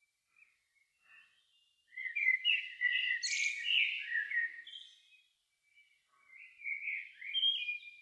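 A songbird singing two phrases of quick, varied warbling notes: the first starts about two seconds in and lasts about three seconds, the second comes near the end.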